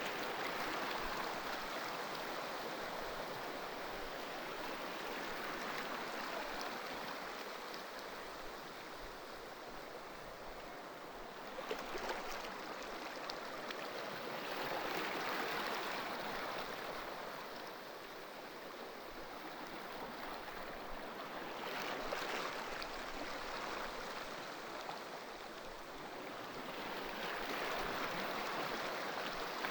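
Ocean waves washing on a shore: a steady rushing of surf that swells and fades about every ten seconds, with a splashing break about twelve seconds in and again about twenty-two seconds in.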